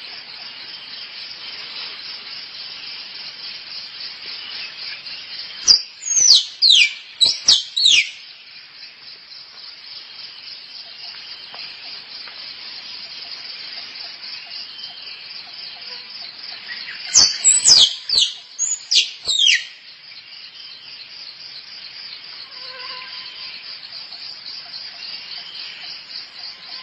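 Squirrel calling with two bursts of four or five sharp, falling chirps about ten seconds apart, offered as a mating call for luring squirrels. A steady high insect chorus runs underneath.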